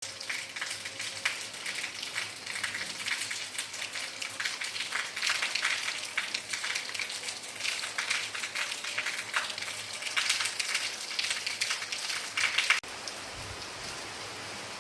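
Rain falling: a dense patter of drops hitting a surface. Just before the end the sound changes abruptly to a steadier, even hiss of rain.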